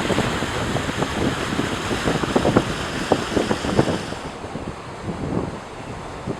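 Rushing floodwater churning and splashing, with wind noise on the microphone; the hiss thins out about four seconds in.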